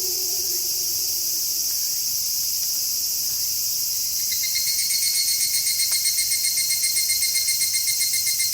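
Night insect chorus hissing steadily, with the tail of a wolf's howl sliding down in pitch and fading out within the first two seconds. About four seconds in, a cricket starts chirping in a fast, even pulse over the chorus.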